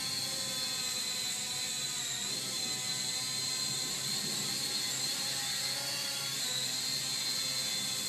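Small toy quadcopter's electric motors and propellers whirring in flight. The high whine shifts slightly in pitch as the motor speeds change, about two thirds of the way through.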